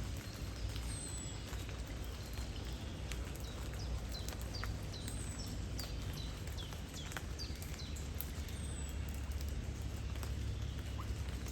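Light rain pattering, with scattered drop ticks, over a steady low rumble of wind and flowing river water. A small bird gives a run of short falling chirps in the middle, with a higher falling whistle about a second in and again about eight seconds in.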